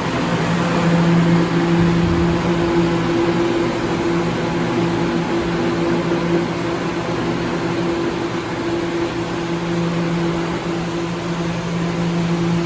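New York City subway train's steady electrical hum at two pitches over a continuous rushing noise.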